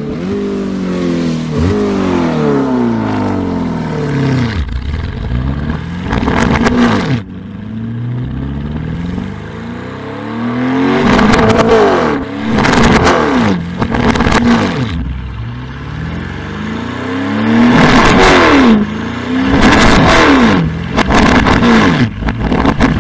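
Mansory Lamborghini Urus Venatus's 4.0-litre twin-turbo V8 revving over and over, the pitch climbing and dropping off each time. Stretches of rapid exhaust crackles come in as the revs fall, several times.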